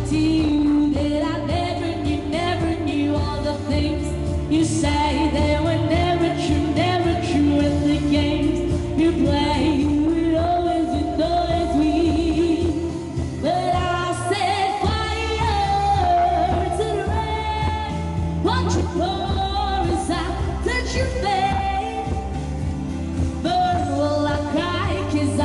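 A woman singing a pop ballad over backing music, with long held and sliding sung notes.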